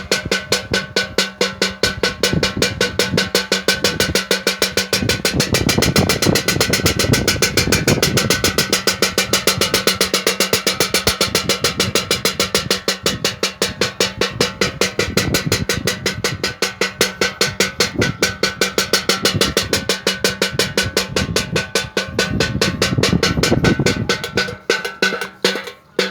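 Wind-driven bird-scaring propeller (kitiran) rattling: its clapper beats against the wood in a rapid, even run of clacks, many a second, like a drum roll.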